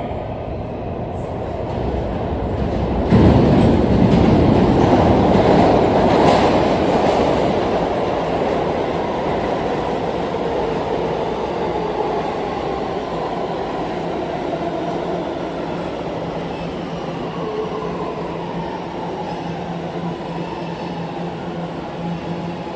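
New York City Subway A train running through an underground station. The rumble jumps up sharply about three seconds in, is loudest for the next few seconds, then eases slowly, with a steady low hum under it in the later seconds.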